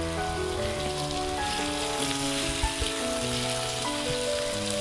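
Background music with held notes over the sizzle of masala-coated chicken frying in oil in a non-stick kadai as it is stirred with a wooden spatula, with a few low knocks.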